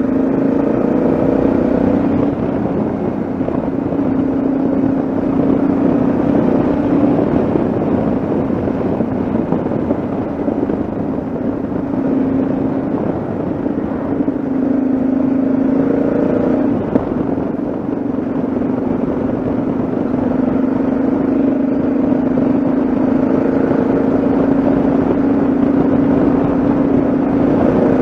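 Yamaha XT660Z Ténéré's single-cylinder four-stroke engine running at a steady cruise, its note shifting slightly in pitch now and then, under a continuous rush of wind and road noise.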